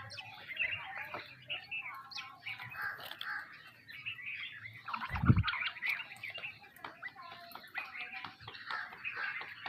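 A flock of sparrows chirping busily, many short overlapping chirps. A single low thump a little over halfway through.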